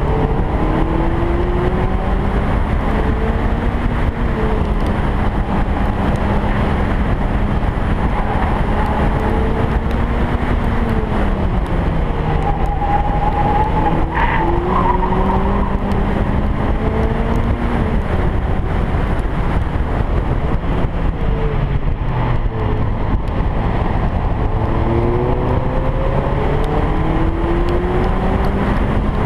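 Car engine driven hard on track, heard from outside the bodywork over steady wind and road rush. Its pitch climbs under acceleration, drops away as the driver lifts off around the middle, holds low for a while, then climbs again near the end.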